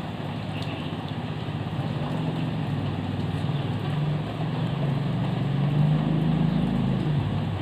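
Steady heavy rain falling, with a low rumble that swells over several seconds, loudest about six seconds in, then eases near the end.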